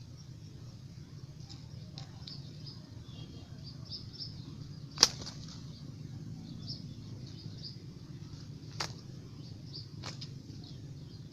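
Faint chirping of small birds over a low steady background hum, broken by three sharp clicks: a loud one about five seconds in and two weaker ones near the end.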